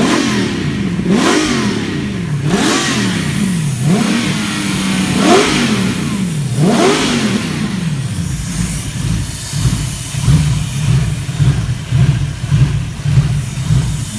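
Toyota 1UZ-FE 4.0-litre V8 engine, test-run before a rebuild, blipped through a series of quick revs that rise and fall about once every second or so. About eight seconds in it settles to an idle that pulses unevenly in loudness.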